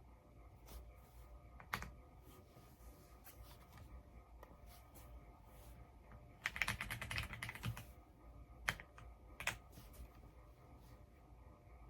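Typing on an EPOMAKER x Aula F99 mechanical keyboard with Graywood V3 switches: scattered single keystrokes, with a quick run of keystrokes lasting about a second, starting about six and a half seconds in.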